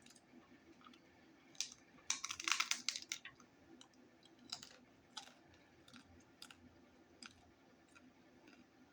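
Biting into and chewing a hard taco shell: a burst of crackly crunching about two seconds in, then scattered smaller crunches while chewing.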